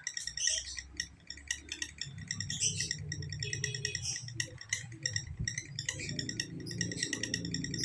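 Lovebird singing a long, unbroken chattering trill of rapid high chirps, about ten a second. This is the continuous 'ngekek' song that fighter lovebirds are judged on. A low hum comes in underneath from about two seconds in.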